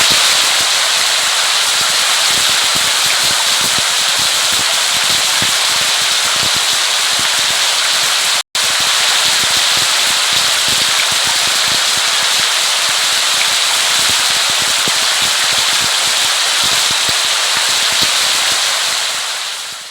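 Steady rain falling, a dense patter of drops hitting a surface. It cuts out for an instant about eight and a half seconds in, and fades out at the very end.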